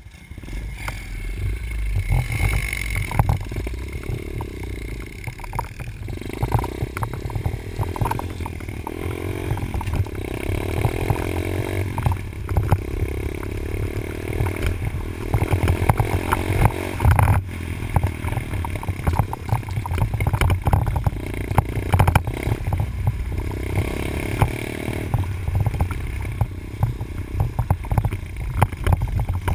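Dirt bike engine being ridden, revving up and easing off over and over as the throttle is worked, over a steady low rumble with many short knocks and rattles.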